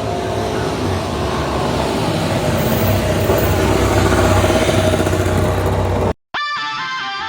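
MotoGP racing motorcycle engine running at high revs, growing steadily louder. It cuts off suddenly about six seconds in, and guitar music follows.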